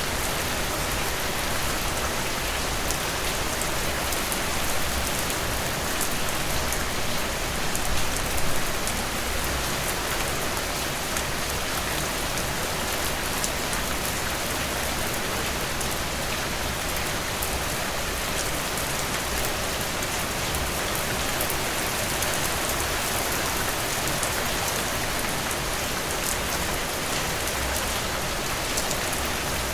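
Heavy rain pouring steadily, a dense hiss of drops with fine individual drop ticks on a surface; briefly louder about eight seconds in.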